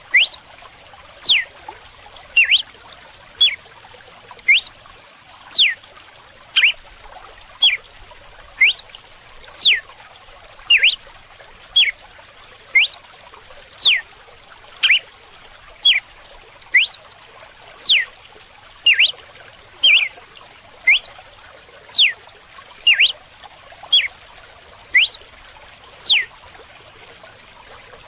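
Red-cowled cardinal (galo-de-campina) singing its 'açoite' (whip) song: short, sharp, whip-like notes repeated about once a second. Steady trickling running water underneath.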